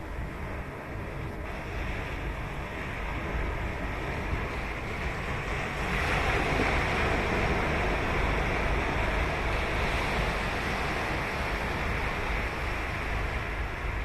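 Ocean surf on a sandy beach: a wave's wash swells up about six seconds in and slowly eases, over a steady low rumble.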